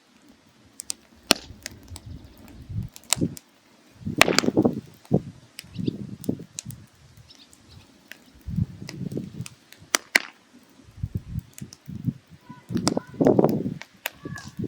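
Firewood burning in a mangal, crackling with irregular sharp pops and snaps over short low rushing swells, as the wood burns down to coals for grilling.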